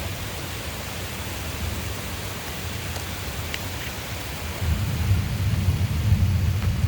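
Steady rain during a thunderstorm, with a low rumble of thunder that swells about two-thirds of the way through.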